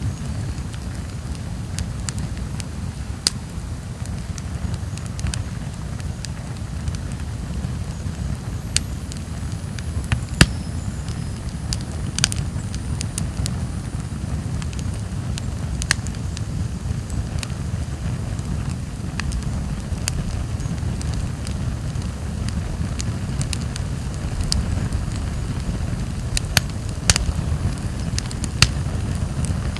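Wood campfire burning: a steady low rumble under irregular sharp crackles and pops from the burning logs, a handful of them louder than the rest.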